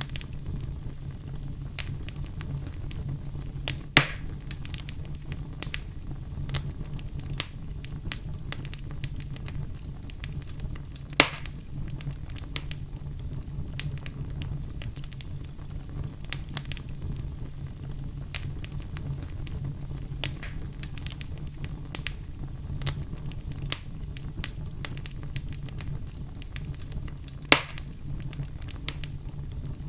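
Wood fire burning in a fireplace: a steady low rumble of flames under frequent small crackles, with three louder pops about 4, 11 and 27 seconds in.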